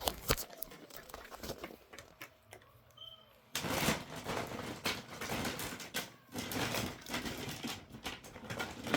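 Plastic toy train track and set pieces clicking and rattling as they are handled and fitted together. The clicks are sparse at first and become a dense rattle from about three and a half seconds in, with a brief pause near six seconds.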